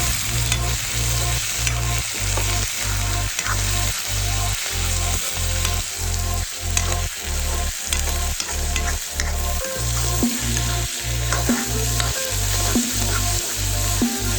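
Food sizzling in a hot pan while being stirred, with frequent small scrapes and clicks of the utensil. A steady low beat of background music runs underneath.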